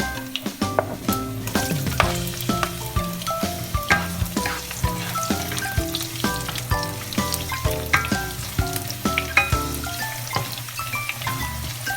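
Food frying and sizzling in a hot pan while it is stirred, with sharp knocks of the utensil against the pan.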